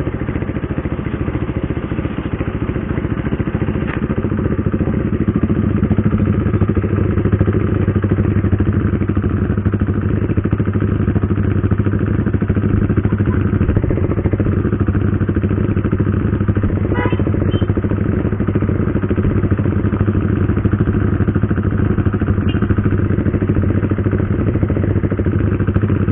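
Motorcycle engine, plausibly a KTM RC 390's single-cylinder, running at a steady pitch with a fast pulsing beat. The pitch rises a little about four seconds in and then holds.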